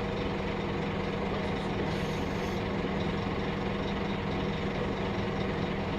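Scania K310UB bus's diesel engine running steadily, with a short faint hiss about two seconds in.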